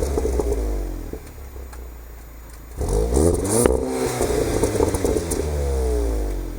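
VW Golf GTI Clubsport's turbocharged 2.0-litre four-cylinder through its stock exhaust, free-revving while standing. The revs fall away to idle. About three seconds in the engine is blipped sharply, with a crack at the peak, and the revs sink slowly back toward idle near the end.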